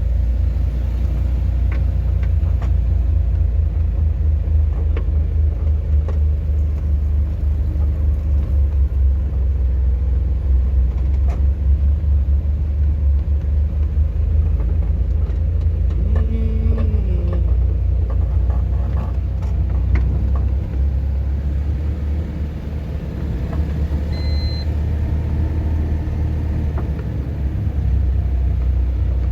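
Steady low rumble of a car being driven, with scattered small knocks and a brief falling tone about sixteen seconds in.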